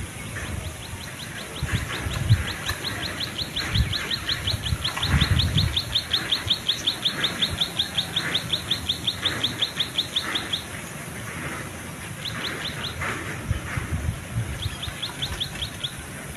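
A bird calling a long, rapid series of short, high, downward-slurred chirps, about five a second, breaking off about ten seconds in and coming back twice in short runs. Low, irregular thumps sound underneath, loudest in the first few seconds.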